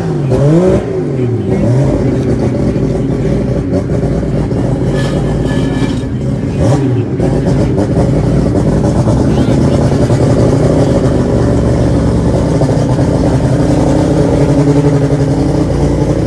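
Drag race car engine blipped up and down twice in quick revs, then running steadily at idle.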